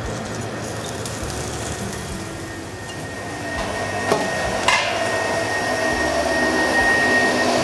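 Buttered ham sandwiches sizzling on a hot plancha, the sizzle growing louder a few seconds in. Two short knocks come about four and five seconds in.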